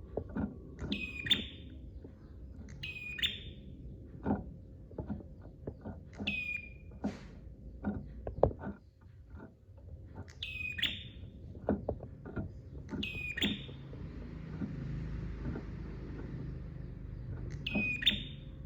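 A prenjak (prinia) giving a sharp, high call about six times, each a quick note that drops in pitch. Many small dull ticks, a faint steady hum and a stretch of soft hiss lie beneath.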